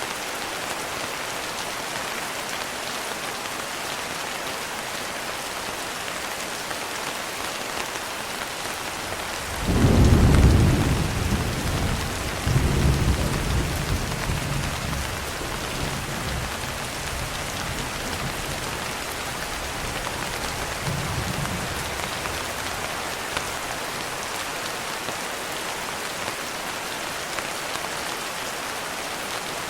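Steady heavy rain falling, with a roll of thunder breaking in about ten seconds in: a sudden deep rumble, a second swell a couple of seconds later, then slowly fading away over the next ten seconds.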